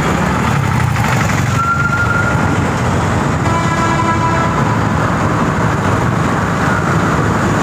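Motorcycle riding along in traffic: the 2002 Hero Honda Passion's single-cylinder engine and steady road and wind noise. A vehicle horn sounds twice, a short single note about a second and a half in, then a fuller, chord-like blast for about a second around the middle.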